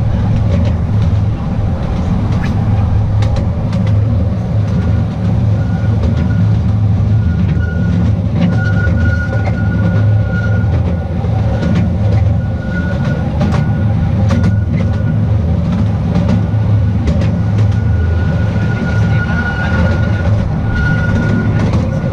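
Narrow-gauge tourist train running along its track: a steady low rumble with scattered clicks from the wheels and rails. A thin wheel squeal comes and goes from about five seconds in until near the end.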